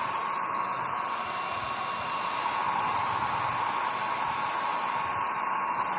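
Compact travel hair dryer running, a steady rush of blown air over a constant high whine from its small motor.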